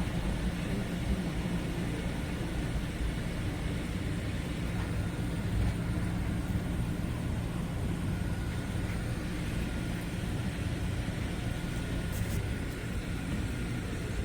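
A truck's engine running with a steady low rumble and a faint constant hum.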